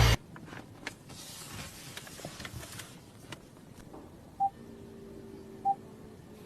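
Faint clicks and rustling, then two short single-pitch electronic beeps about a second and a quarter apart over a faint low steady hum.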